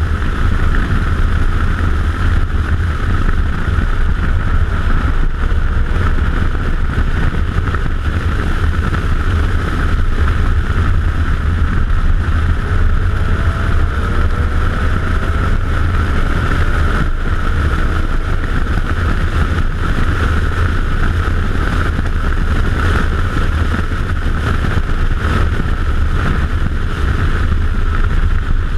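Audi S4 driven hard on a race track, its engine a steady low drone mixed with wind and road noise. Faint gliding tones come and go in the middle.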